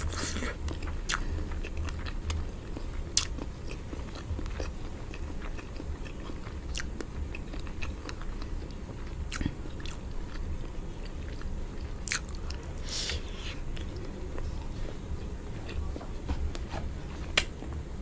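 Close-up mouth sounds of a person chewing boiled egg and rice eaten by hand: wet chewing with scattered sharp smacks and clicks, over a steady low hum.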